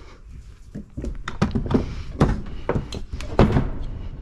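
Handling noise: a quick, irregular run of knocks and clatters starting about a second in.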